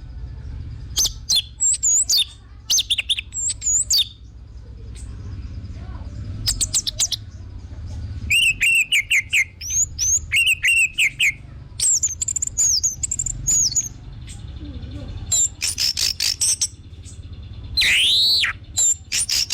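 Orange-headed thrush singing in bursts of varied high whistles, chirps and trills, with short pauses between phrases and a loud down-slurred whistle near the end. A low steady hum runs underneath.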